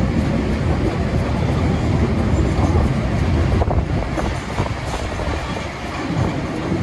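Train running on the rails: a steady heavy low rumble, with a few clicks from the track about halfway through.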